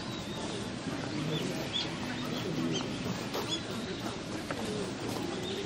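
Small birds chirping in short, scattered calls over a low murmur of people's voices.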